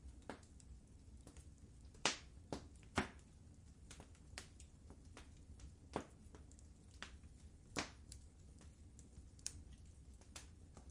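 Wood fire in a fireplace crackling: irregular sharp pops and snaps, the loudest about two, three and eight seconds in, over a low steady rumble of the flames.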